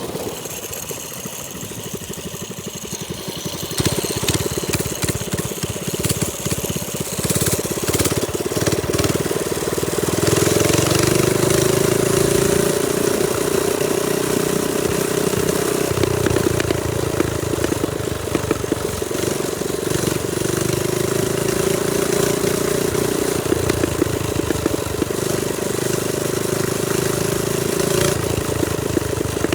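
Trailmaster Storm 200 minibike's small single-cylinder engine running on the move. It is lower at first and louder from about four seconds in. From about ten seconds its pitch rises and falls several times as the throttle is opened and eased off.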